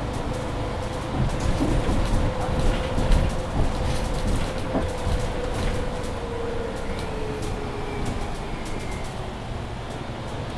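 A 2021 Mercedes-Benz Citaro C2 hybrid city bus heard from inside while under way: low running rumble with interior rattles and clicks. A steady drivetrain whine is heard throughout and falls slowly in pitch in the second half as the bus slows.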